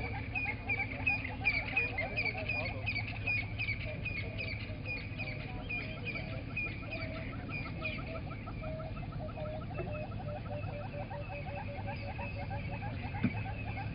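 Dawn chorus of wild birds at a waterhole: many birds calling over one another with repeated short chirps and fast trills, over a steady low hum. One sharp click near the end.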